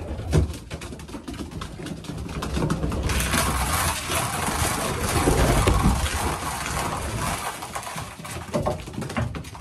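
Racing pigeons cooing, with scattered clicks and taps. From about three seconds in, a steady rushing hiss runs for some six seconds, the sound of grain moulting mixture being poured into the feeders.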